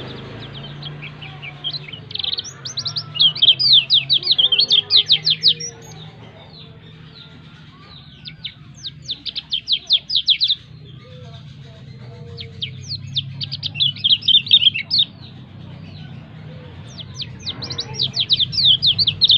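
White-eye (pleci dakun) singing vigorously in four bursts of rapid, high chirping notes, each burst lasting about two to three seconds. A steady low hum runs underneath.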